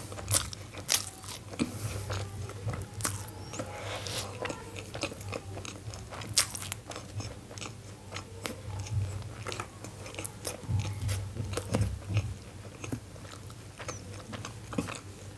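Close-miked chewing of steamed momos (dumplings), heard as many irregular short mouth clicks and smacks.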